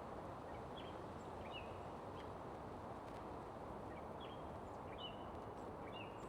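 Steady rush of a flowing creek, with short, high bird chirps dotted through it about half a dozen times.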